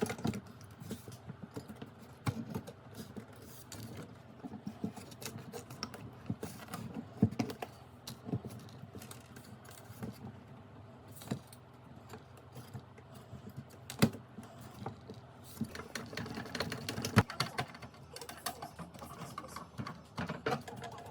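Irregular clicks and light rattles of small hard parts and tools being handled, with a busier spell near the end and a faint steady hum beneath.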